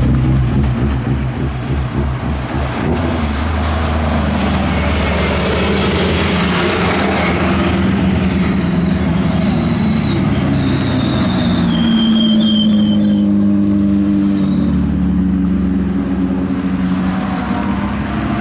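A hillclimb racing car's engine running hard. It pulses low at first, grows loud and dense about six to seven seconds in, then carries on through several gear changes with a high whine over the engine.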